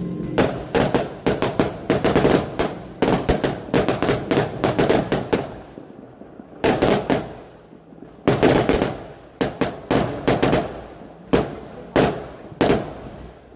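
Fireworks going off in quick volleys of sharp bangs, packed densely for the first five seconds. After a brief pause, shorter groups and single bangs follow about once a second.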